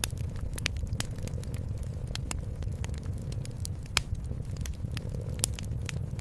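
Wood fire crackling in a fireplace: irregular sharp pops over a steady low rumble, with one louder pop about four seconds in.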